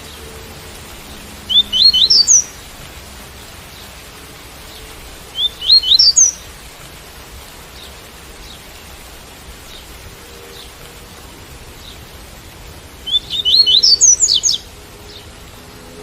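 Double-collared seedeater (coleiro) singing the tui-tui song: three short phrases of quick upward-sweeping whistled notes, the last the longest, over a steady hiss of rain.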